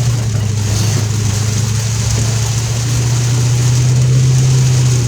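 Car driving through heavy rain, heard from inside the cabin: a steady low drone of engine and road, with the hiss of tyres on the wet road and rain, swelling slightly about three seconds in.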